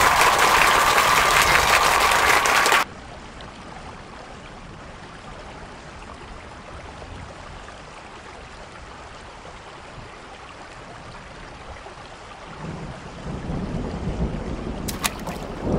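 Heavy rain noise that cuts off abruptly about three seconds in, leaving a faint steady hiss of rain. Near the end, wind rumbles on the microphone, with a few clicks.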